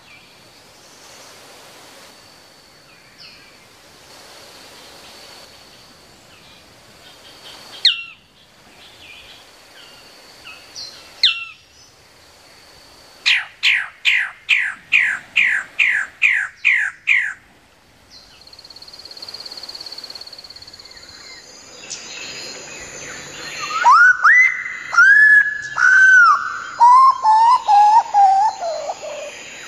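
Birds singing: two sharp downward-sweeping whistles, then a fast run of about a dozen descending whistled notes, and near the end a louder series of whistles stepping down in pitch. A steady, high insect buzz comes in about two-thirds of the way through.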